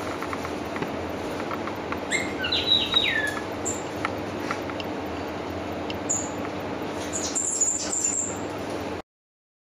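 Small bird chirping over a steady hum, with a quick run of chirps that glide up and down a couple of seconds in and a few thinner, higher chirps near the end. The sound cuts off abruptly about nine seconds in.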